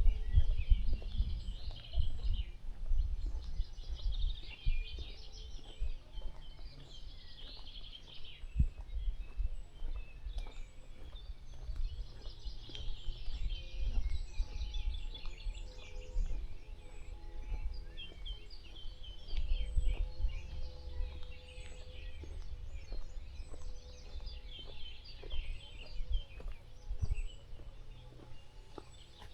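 Several songbirds chirping and singing, over an uneven low rumble.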